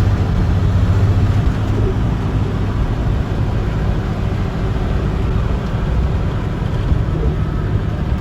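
Engine drone and road noise heard from inside a moving box truck's cab, a steady low rumble.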